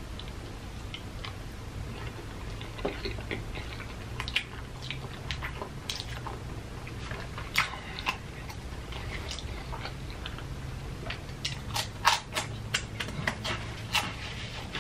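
A person chewing a mouthful of fettuccine alfredo noodles with hot sauce, with scattered smacking clicks that come faster in the last few seconds.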